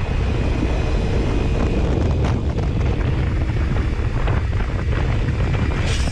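Wind buffeting the microphone of a camera on a moving motorcycle, with steady engine and road noise underneath.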